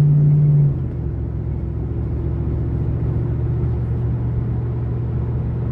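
Car engine and road noise from inside a moving car's cabin: a steady low drone that steps down a little in pitch and loudness a little under a second in, then holds steady.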